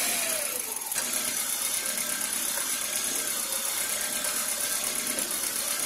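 Nissan Sentra's engine idling steadily, heard from the open engine bay, kept running so the helper's pedal strokes can bleed the brake master cylinder.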